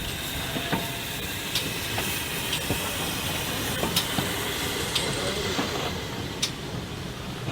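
Steam locomotive hissing steam, with scattered metallic clanks and ticks; the hiss fades near the end.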